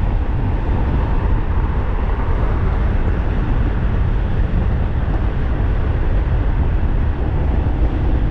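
Steady rush of wind on the microphone with tyre and road noise from a 1500-watt DIY e-bike riding at about 50 mph.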